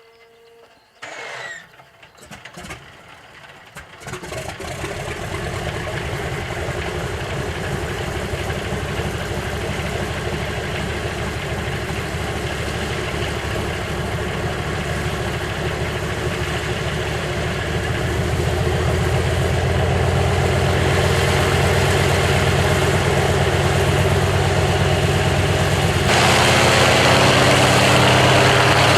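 Antonov An-2's nine-cylinder radial piston engine cold starting. It gives a few irregular coughs over the first few seconds, catches about four seconds in and settles into a steady, throbbing run. The sound grows louder about two-thirds of the way through and again near the end.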